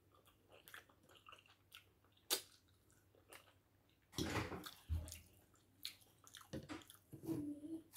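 Close-miked eating sounds of a mouthful of potato fufu and egusi soup: soft wet chewing with scattered clicks and smacks, and a louder stretch about four seconds in.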